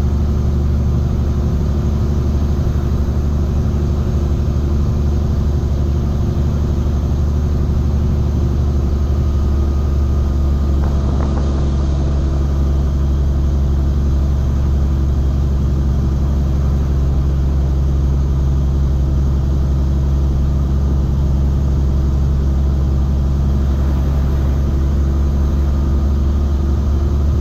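Semi-truck engine running steadily with a deep, constant drone while hauling a loaded trailer; the engine note rises slightly about halfway through.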